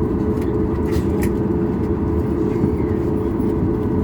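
Steady cabin noise inside a Boeing 737 MAX 8 on the ground after landing: low rumble from the idling engines and airflow, with a steady hum over it. A couple of faint clicks sound about a second in.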